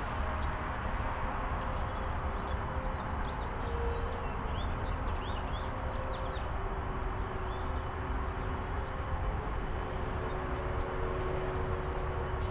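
Steady low rumble of road traffic with a faint steady hum, and a run of short, high bird chirps from about two to seven seconds in.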